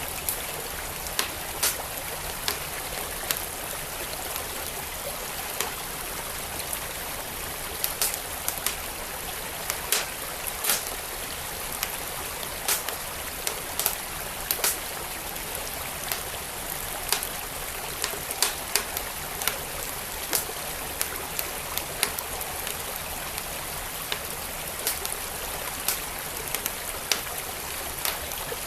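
Wood fire crackling, with sharp, irregular pops over the steady rush of a flowing stream.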